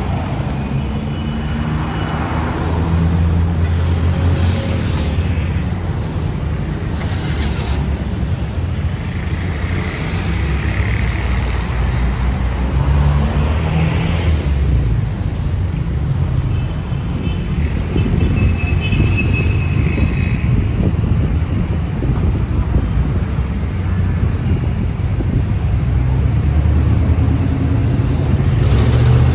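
Street traffic: cars and other motor vehicles running and passing, a continuous low engine rumble that swells as vehicles go by.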